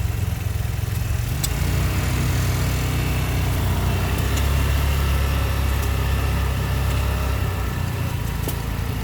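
Small engine running steadily as a low drone, a little louder around the middle, with a few faint clicks.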